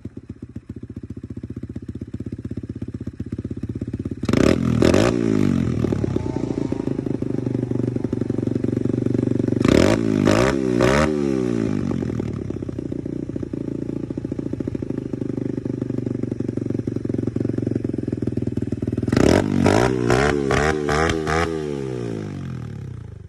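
A 150cc dirt bike's single-cylinder four-stroke engine, fitted with a freshly tuned Nibbi racing carburetor, idling steadily and being revved: once about four seconds in, again around ten seconds, and in a quick run of throttle blips near the end. The revs pick up cleanly with no bog or lag, a sign the carburetor is well tuned.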